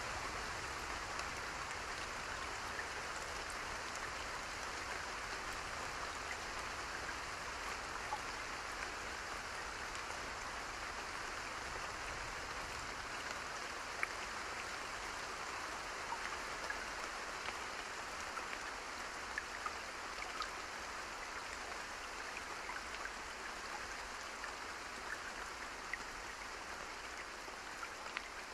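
Steady continuous rain, an even hiss with scattered faint ticks of individual drops.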